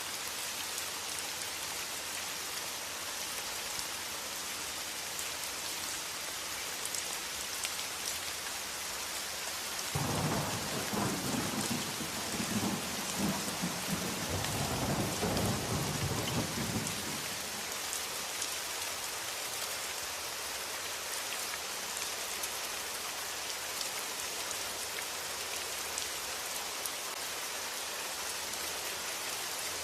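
Steady rain hiss, with a roll of thunder that starts suddenly about a third of the way in, rumbles low for about seven seconds and fades.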